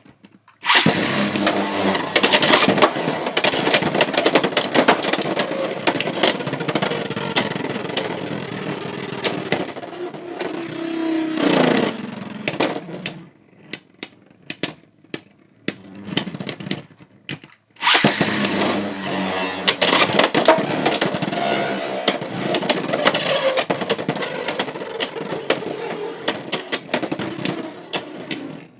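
Two Beyblade X spinning tops, Fox Brush J9-70GR and Hells Reaper T4-70K, launched and battling in a plastic stadium. Each round is a dense rattle of clashing hits and bits scraping the stadium rail. The first round ends near twelve seconds with a falling whine as a top winds down, and there are a few loose clicks before the second round starts suddenly about eighteen seconds in.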